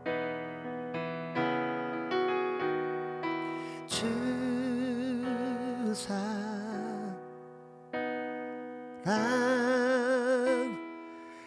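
Slow worship song on keyboard and voice: gentle piano chords for a few seconds, then a single held sung note with vibrato on the word '주' ('Lord'), more piano, and another long held note near the end.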